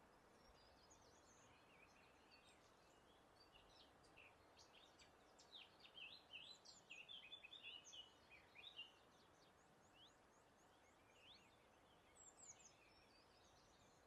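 Small songbirds chirping and twittering, several short quick calls overlapping and busiest about halfway through, with a run of rapid thin high notes later on. Under them is a faint, steady background hiss.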